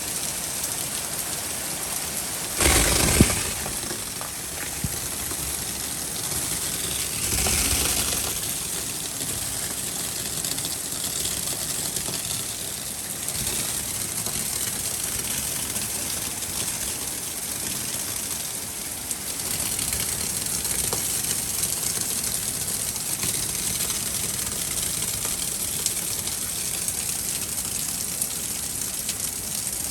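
Steady downpour of rain during a spring thunderstorm. It gets briefly louder twice: a short sharp surge about three seconds in, and a softer swell around eight seconds.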